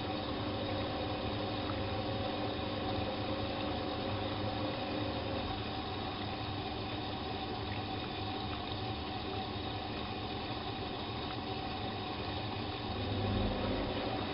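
Bosch WFK 2431 washing machine running mid-cycle: a steady motor hum with water sounds from the drum, swelling briefly in the low end near the end.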